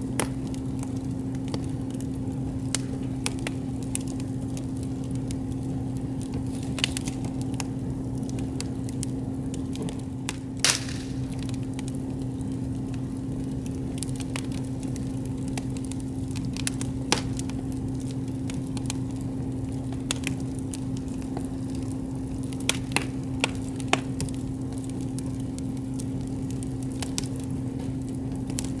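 Wood campfire crackling with scattered sharp pops and snaps, one louder pop about ten seconds in, over a steady low hum.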